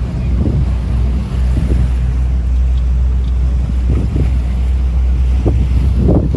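Wind buffeting the microphone aboard a moving cruise boat: a loud, steady low rumble, gustier toward the end.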